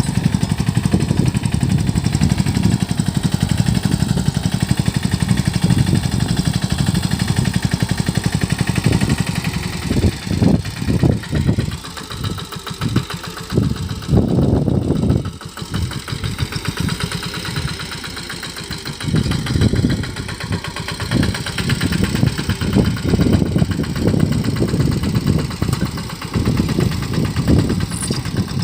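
Engine of a Sanedo three-wheeled mini tractor running. Steady for the first several seconds, then rising and falling in uneven surges.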